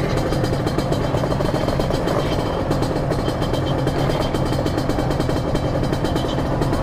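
Motorcycle engine running steadily at idle, a rapid even pulsing with no revving.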